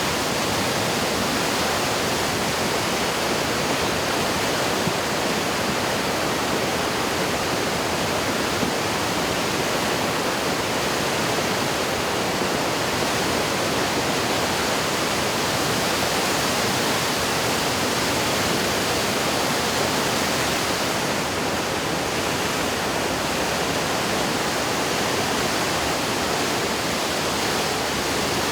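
River swollen in flood by typhoon rain, rushing in a loud, steady, unbroken noise of high, fast water.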